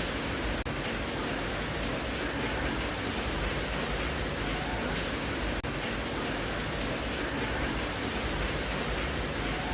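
Steady rain sound, an even hiss, with two brief dropouts about five seconds apart.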